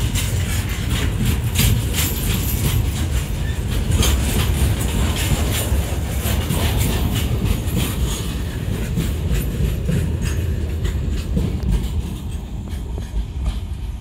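Freight wagons loaded with steel coils rolling past at close range: a steady low rumble of wheels on rail with rapid clicks as the wheels cross rail joints. The sound fades a little near the end as the last wagons move away.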